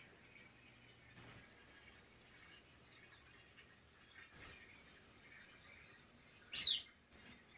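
A small bird's short, high chirps: four in all, spaced a few seconds apart, with the loudest one, falling in pitch, followed closely by a last chirp near the end.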